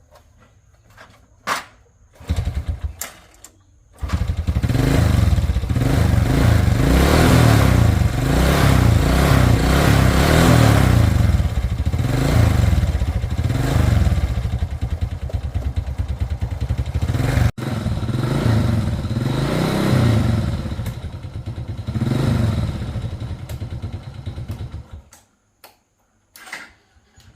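A 110cc motorcycle engine is cranked briefly, starts about four seconds in, and runs with repeated revs rising and falling. It shuts off near the end.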